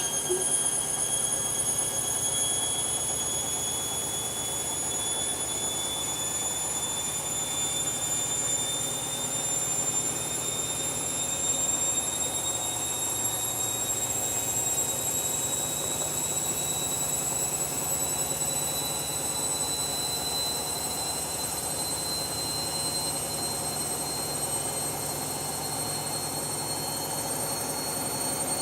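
Washing machine running with a steady hum and a high motor whine that climbs slowly and evenly in pitch as the drum gathers speed, typical of a spin ramping up.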